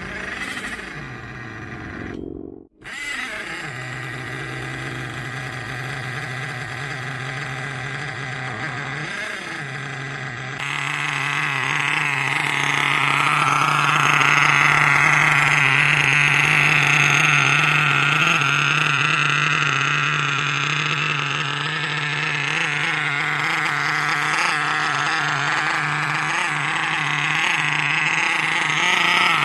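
Small nitro (glow-fuel) RC engine running with a steady buzz. About ten seconds in it gets louder, with a higher wavering whine.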